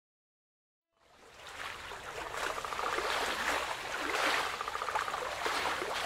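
Oar strokes from a wooden rowboat on a lake: water splashing and trickling off the oar, swelling with each pull about once a second. It starts suddenly about a second in.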